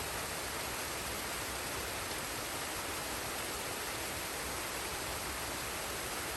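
Waterfall and forest stream, water rushing in a steady, even wash that never changes.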